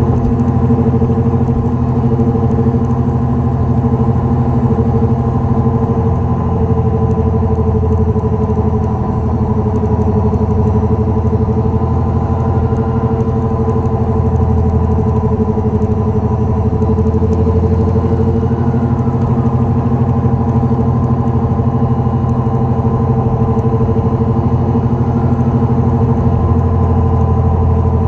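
Dodge Neon SRT-4 on the move with a steady low drone and several humming tones above it, running on evenly. A worn wheel bearing makes this drone.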